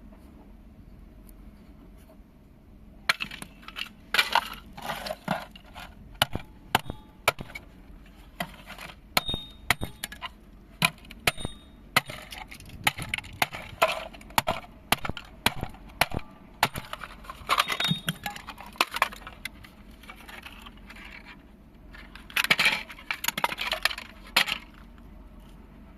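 Hard plastic and small metal parts being broken apart and handled: a long run of sharp cracks, clicks and clinks, with short stretches of scraping and rattling, stopping near the end.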